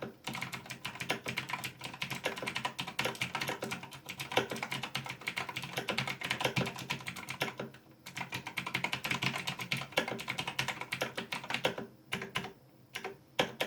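Razer BlackWidow Ultimate 2016 mechanical keyboard being typed on fast, a dense run of key clicks with short pauses about eight seconds in and again near the end.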